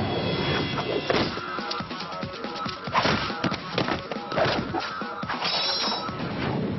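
Dramatic music under a string of comic fight sound effects: several hard whacks and crashes, the loudest about three seconds in.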